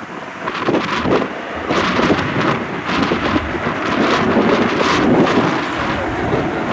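Strong gusty wind buffeting the camera microphone: a rough, rumbling rush that swells and dips in uneven gusts.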